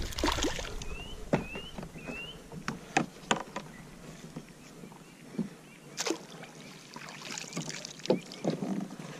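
Scattered knocks and clicks of handling on a fishing kayak. About a second in come three short rising chirps.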